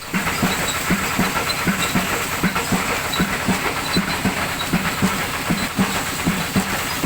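Old Kubota tractor's diesel engine running slowly, an even low thump about three times a second over a steady hiss.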